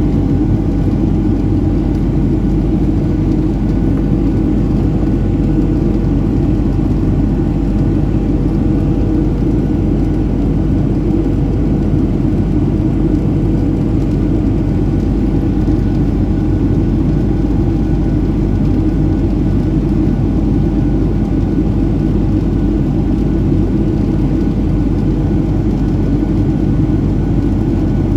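Steady cabin noise inside a Boeing 737-700 airliner: a constant low rumble with a few faint steady hum tones over it.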